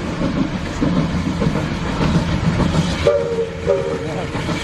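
Bagnall steam tank engine and its train running with a steady rumble, with two short whistle blasts about three seconds in, the first a little longer than the second.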